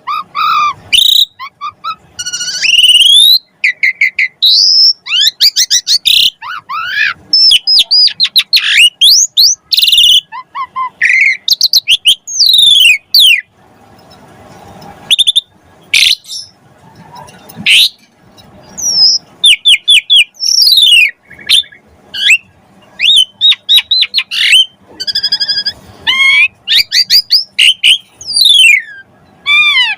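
Jalak suren (Javan pied starling) singing loudly and non-stop in a busy, varied song of quick sweeping whistles, rapid runs of repeated notes and a few harsh chattering phrases.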